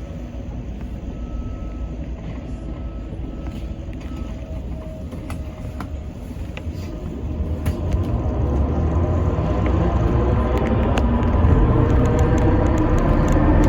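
Interior running noise of an Alexander Dennis Enviro400 MMC hybrid double-decker bus: a steady low rumble that grows clearly louder about halfway through. A faint on-and-off tone can be heard early on.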